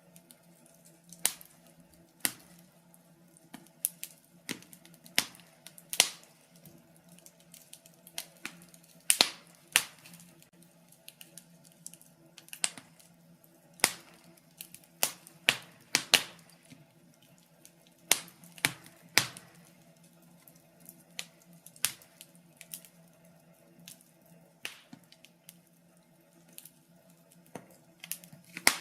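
Wood fire crackling in a fireplace: irregular sharp pops and snaps, a few a second, some much louder than the rest.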